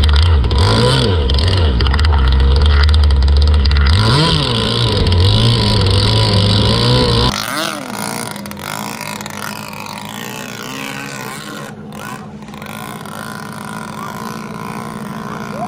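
About seven seconds of background music with a heavy bass line, cutting off suddenly to the Pro Boat Zelos RC boat's motor running out on the water as a steady hum whose pitch slides up and down with throttle and distance.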